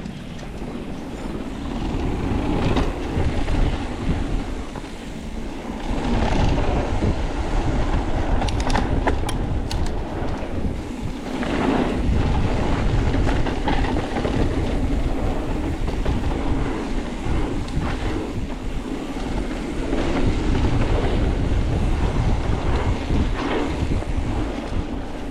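Mountain bike riding down a dirt singletrack trail: tyres rumbling over the ground with rattles from the bike, and wind rushing over the microphone.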